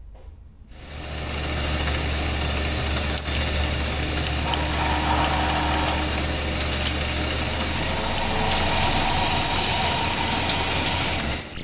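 An electric machine motor starts up just under a second in and runs steadily with a low hum and a high whine. A brief falling whistle-like tone comes near the end.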